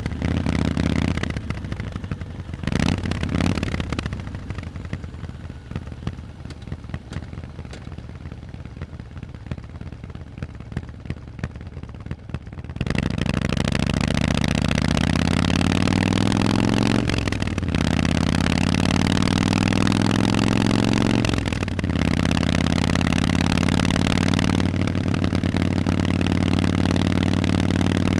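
Harley-Davidson Forty-Eight's 1200 cc V-twin through loud Vance & Hines exhausts. The rider rolls off the throttle near the start and the engine runs quietly for about ten seconds with uneven popping. It then opens up and accelerates hard, rising in pitch, with brief drops at two or three gear changes.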